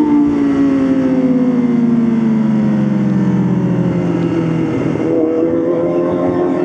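Motorcycle engine running under way, its note falling steadily for about five seconds as the revs drop, then rising again near the end.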